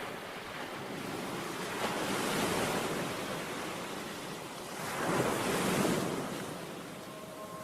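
Rushing surf-like noise that swells and fades twice, like waves washing in.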